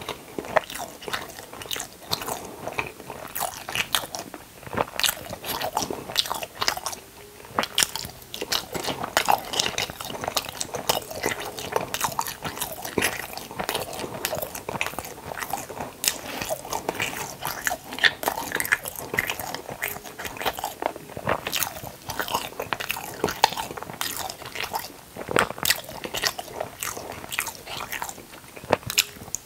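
Close-miked chewing and biting of a soft white 'log slice': a dense, irregular run of small mouth clicks and smacks.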